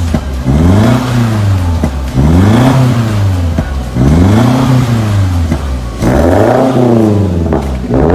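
Subaru XV's flat-four boxer engine being blipped over and over through an aftermarket cat-back exhaust with a valved muffler. The pitch rises and falls with each rev, about one rev every second and a half.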